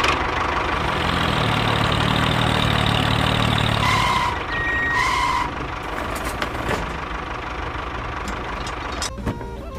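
Tractor engine running steadily, louder in the first few seconds, with two short high tones about four and five seconds in.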